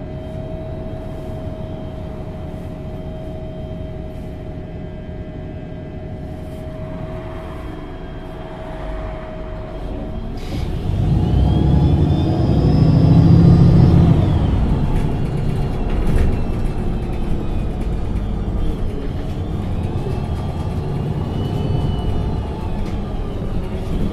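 MAN NG273T articulated city bus with an LPG engine running slowly at first, under a steady tone. About ten seconds in there is a sharp click; the engine then grows louder as the bus accelerates, with rising whines, and settles into a steady run.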